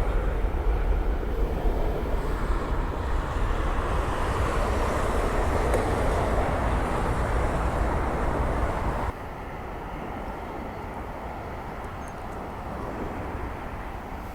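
Jet airliner's engines roaring as it climbs away after takeoff, a loud, steady rumble. About nine seconds in it drops suddenly to a quieter, lower rumble.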